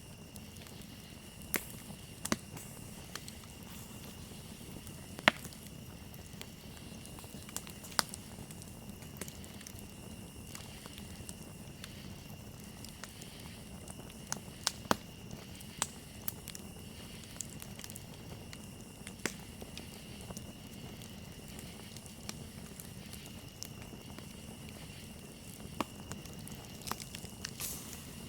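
Wood campfire crackling, with sharp pops at irregular intervals of a second or two, over a steady high-pitched cricket trill.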